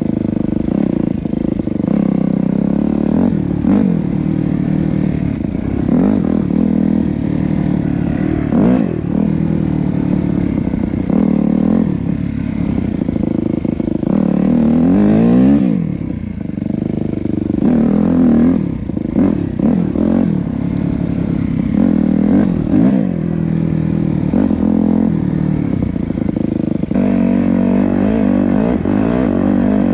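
Yamaha YZ250F's single-cylinder four-stroke engine riding hard, revving up and falling back again and again as the throttle opens and closes. The engine backs off briefly about sixteen seconds in.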